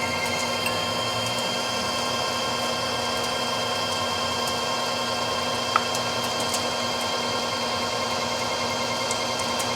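Precision Matthews metal lathe running steadily during a facing cut on a pipe flange: a steady whine of motor and gears with several held tones and a light hiss. One small click about six seconds in.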